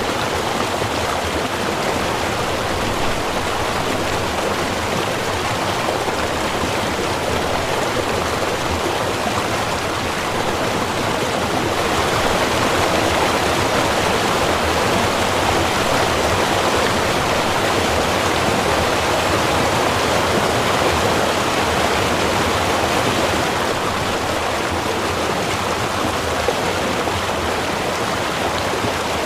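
Small river running, a steady rush of water that swells slightly for about ten seconds in the middle.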